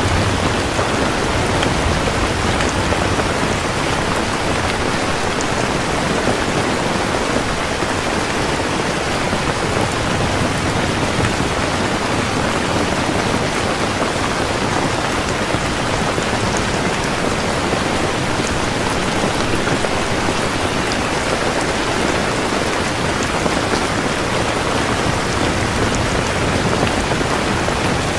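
Rain falling steadily and evenly, pattering on surfaces, with no distinct thunderclap.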